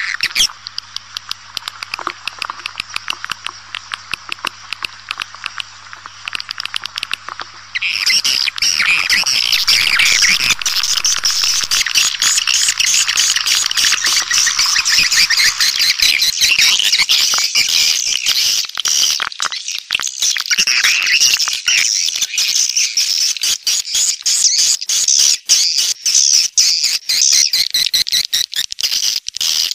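Swiftlet calls from a swiftlet-lure recording: dense, rapid, high-pitched chirping and twittering. About eight seconds in the calls become louder and fuller, and a low hum underneath stops.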